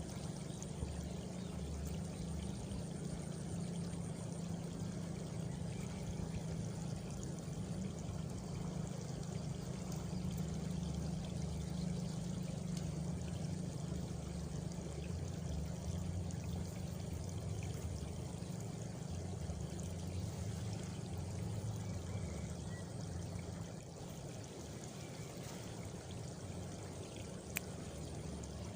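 Steady rush of flowing water, like a stream or a water channel, with a faint high insect trill in the first few seconds.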